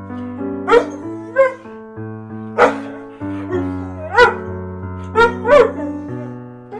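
A dog barking six times in short, sharp yips over background piano music.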